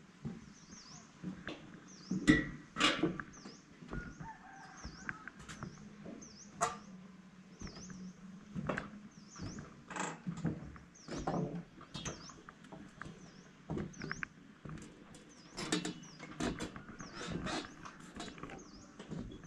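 Quiet morning outdoor ambience: a bird repeats a short high chirp about once a second, with scattered clicks and knocks, the loudest a couple of seconds in and about halfway. A faint low hum runs through the first half.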